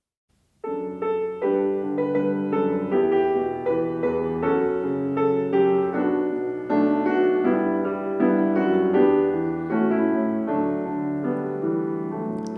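Piano playing the introduction to a hymn, notes struck in a steady, even pulse, starting about half a second in.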